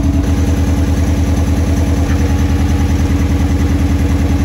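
Isuzu D-Max's 1.9 turbo diesel four-cylinder idling with a steady, even pulsing beat.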